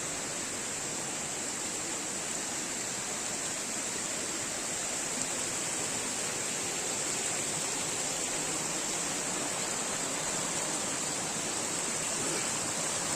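Forest stream running steadily: a constant, even rushing of water flowing down from higher up the hill.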